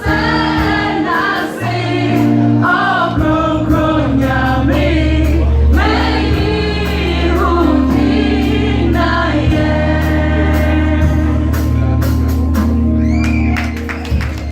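Choir singing a gospel song in Twi over instrumental accompaniment that holds steady low notes; the singing eases off near the end.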